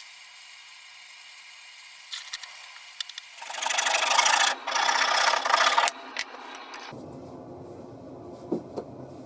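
Two long strokes of a hand tool scraping across wood, each a little over a second, about midway through, with a few light knocks before them.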